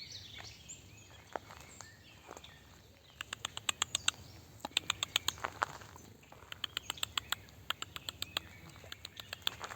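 Woodpecker pecking, a series of rapid sharp taps in several quick runs with short pauses between them.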